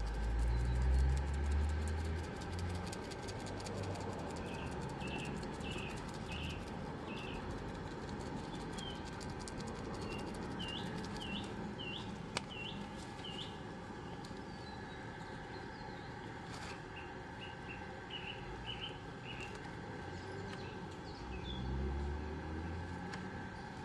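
A small bird chirping in repeated short series of quick, high notes, over a steady outdoor background hiss. A low rumble sits under the start and returns near the end, and there is one sharp click a little past halfway.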